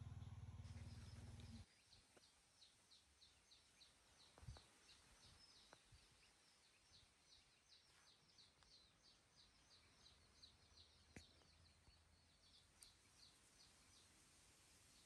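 Faint, quick series of high chirps, about three a second, from a bird calling in the background over near silence. A low rumble stops about a second and a half in, and there are a couple of faint clicks.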